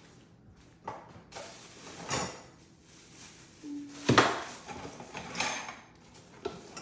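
Parts of a bird feeder being handled and fitted together: a handful of separate knocks and rattles, the loudest about four seconds in.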